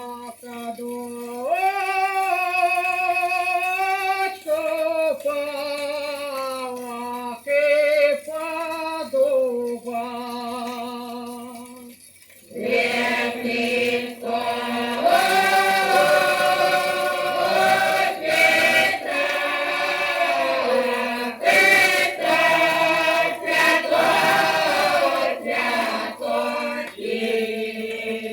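Choir singing a Russian folk song, played from an old 78 rpm shellac record: a single lead voice sings long held notes, then about twelve seconds in the full choir comes in, louder. Faint surface hiss and a few clicks from the record run underneath.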